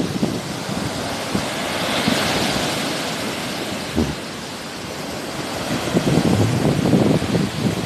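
Sea waves washing ashore, one wash swelling about two seconds in, with wind gusting on the microphone. A short thump about four seconds in.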